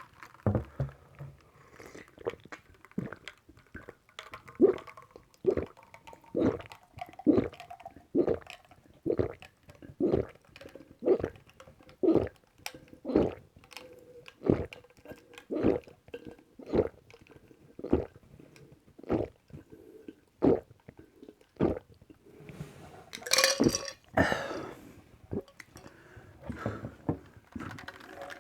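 A person gulping a drink, one swallow about every second in a steady rhythm. Near the end the swallows give way to a louder, breathier rush of sound.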